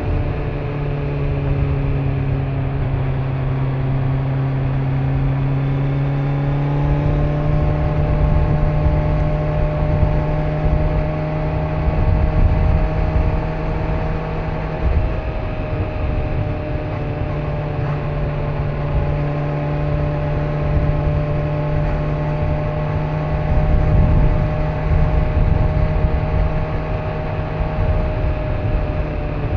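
Kawasaki Z900's inline-four engine running at a steady ride, its pitch shifting a little about seven seconds in and then holding nearly level, over a steady low rumble of wind and road.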